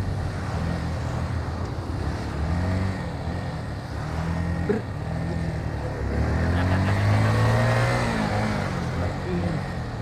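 Motorcycle engine revving up and easing off again and again as the bike rides along, with a long rise in engine pitch about six to eight seconds in.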